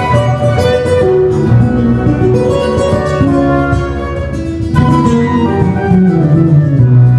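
A small instrumental trio playing live: held melody notes that move from pitch to pitch over plucked accompaniment and a sustained low bass.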